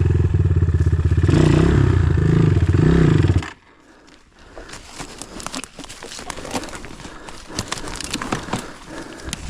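Enduro motorcycle engine running close by, its pitch rising and falling a little, which cuts off abruptly about three and a half seconds in. Irregular crunching and scraping clicks follow.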